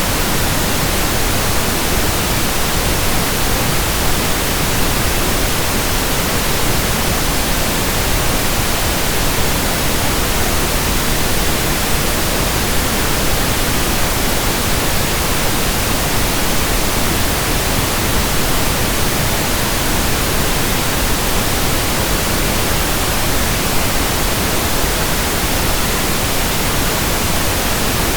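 Pink noise: a steady, even hiss spread across the whole range, unchanging throughout.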